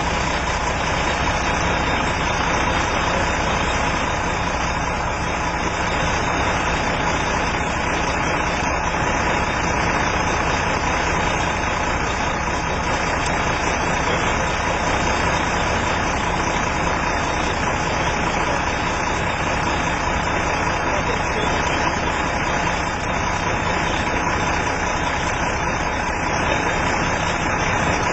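A vehicle engine running steadily at idle, under a constant hiss with a faint steady hum.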